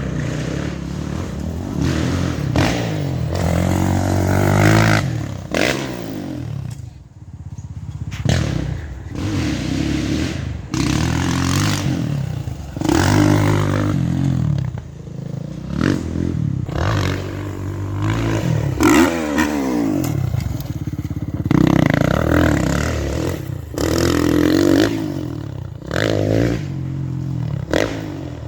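Dirt bike engine revving up and dropping off over and over as it is ridden around a motocross track, its pitch rising and falling repeatedly.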